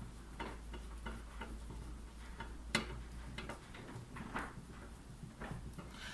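Bicycle hub bearing cone being screwed and tightened onto the threaded axle: irregular light metal clicks and ticks, two of them sharper than the rest.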